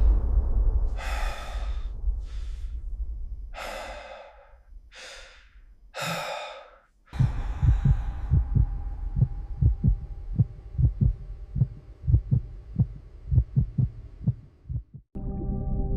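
A person breathing hard in short gasps, about five times. This is followed by a long run of rapid, irregular low thumps, which stops with a sudden cut about a second before the end.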